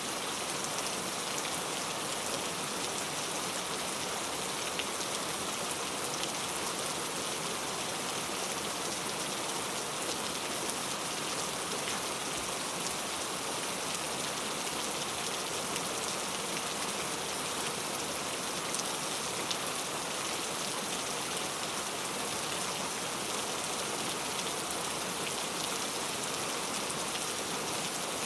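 Steady rain falling, an even hiss with many small sharp drop taps scattered through it.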